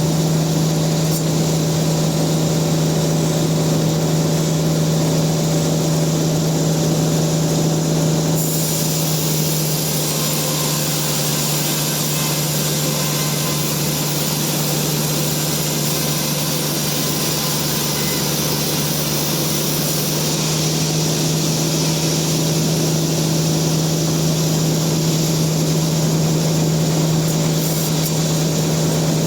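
Sawmill saw running with a steady low hum. A brighter, hissier sound lies over it for about twelve seconds in the middle, then drops back.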